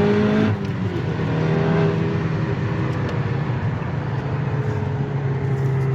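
2017 Volkswagen Golf R's turbocharged 2.0-litre four-cylinder with an HPA FR450 turbo, pulling hard in third gear during a rolling acceleration run with its exhaust flap closed. About half a second in the rising engine note breaks off, and the engine then runs on in a steady, slowly falling drone.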